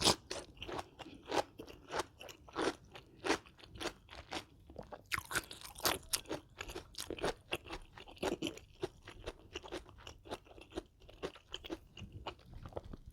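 Close-up chewing of crunchy food, a steady run of sharp crunches about one to two a second with softer chewing between.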